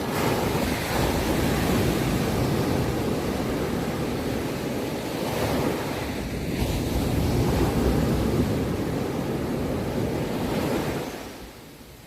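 Sea waves surging and washing on the shore, a steady rush that swells and eases, then drops away sharply near the end.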